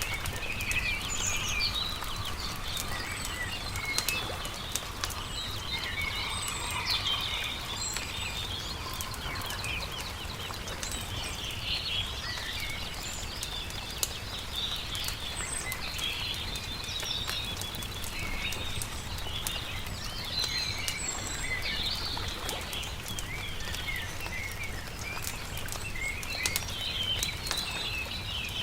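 Small songbirds chirping and warbling over a crackling campfire, with frequent sharp pops and a steady low rumble underneath.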